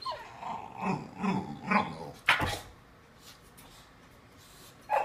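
Boxer puppy giving a run of short whining, grumbling vocalizations, then one sharp bark about two seconds in and another short sound near the end, stubbornly demanding the cat treats it is being refused.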